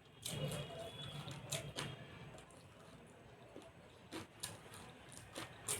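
Close-up eating sounds: chewing with a string of sharp, irregular mouth clicks and smacks, busiest in the first two seconds.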